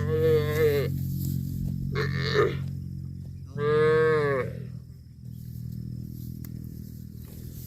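A cow mooing three times: two clear calls and a shorter, rougher one between them. A steady low hum runs underneath through the first half.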